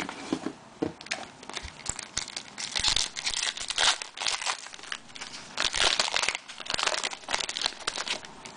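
Foil card-pack wrapper being torn open and crinkled by hand, with irregular bursts of crackling.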